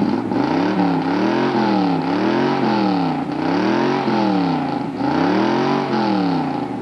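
Car engine revved up and let back down about five times in a row, its pitch rising and falling with each blip of the throttle.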